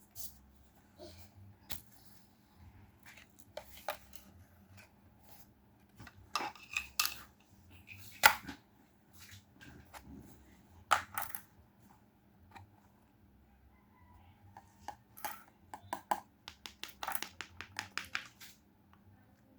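Small hard objects clicking and clattering as they are handled, with scattered knocks and a quick run of rattling clicks near the end.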